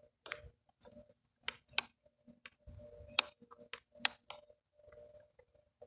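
Scattered light clicks and taps of plastic parts being handled, from checking the RC plane's battery and its compartment.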